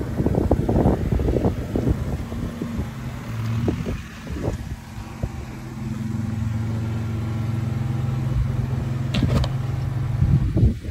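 Off-road 4x4's engine running steadily at low speed as it crawls over rock, with knocks and clatter from the vehicle in the first couple of seconds and again near the end.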